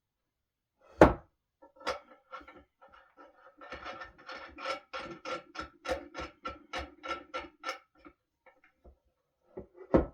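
Knocking during assembly of a solid-wood dining table: one loud knock about a second in, then a run of quick taps with a slight ring, about four a second, and another loud knock near the end.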